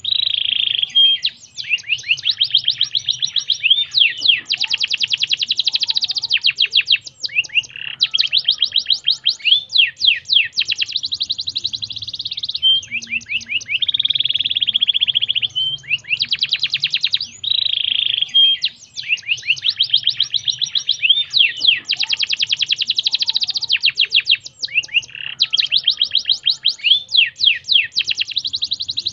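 Domestic canary singing a long song of rapid trills, fast runs of repeated sweeping notes broken by short buzzy rolls, pausing briefly every few seconds. This is a recorded canary song played to stimulate caged canaries to sing.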